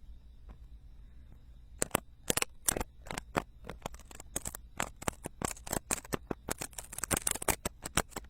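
Ear-cleaning tools scraping and picking inside silicone binaural ear microphones: after about two seconds of quiet, a quick, irregular run of crisp clicks and crackles that crowds together near the end.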